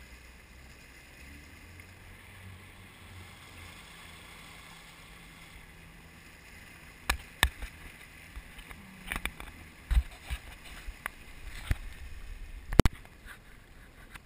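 Jet ski engine running low and steady at slow speed. From about seven seconds in, it is broken by a dozen or so sharp knocks, the loudest near the end.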